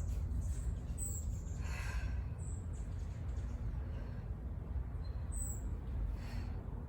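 A woman breathing hard during strength exercise, with heavy exhalations about two seconds in and again near the end, over a low steady hum. A few short, high, falling chirps are heard in between.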